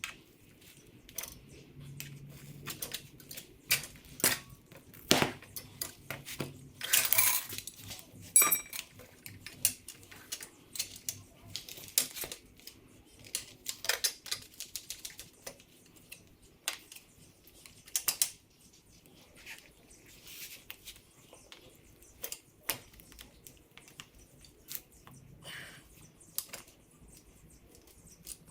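Metal tire levers clicking, tapping and scraping against a dirt bike's wheel rim while the tire bead is levered on. The knocks come irregularly, a few with a brief metallic ring.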